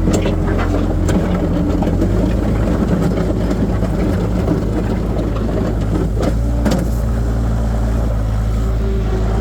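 Skid steer loader's diesel engine running under load, a steady drone, with a few sharp metallic knocks and clanks from the bucket and loader arms, the loudest near the start and about six to seven seconds in.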